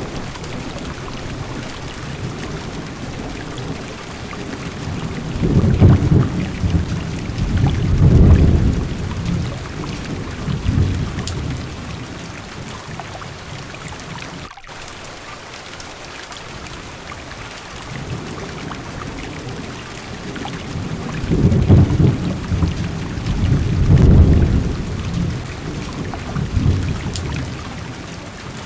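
Heavy rain falling steadily on a car's windows and roof, with two long low rolls of thunder, one starting about five seconds in and another about two-thirds of the way through.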